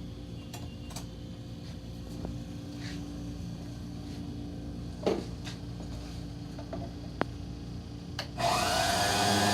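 Blizzard mixer's motor switched on during a test run after its speed control was replaced, running with a whine for about a second and a half near the end. A couple of sharp clicks come earlier.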